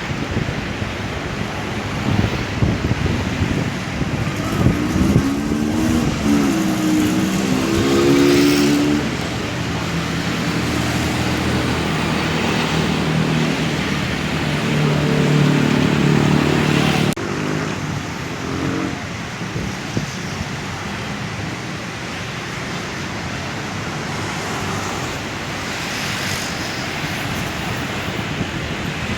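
Road traffic with vehicles passing one after another: a steady tyre and road noise, with engine notes that bend in pitch as each vehicle goes by. The loudest passes come about seven seconds and fifteen seconds in, and the sound drops suddenly at about seventeen seconds.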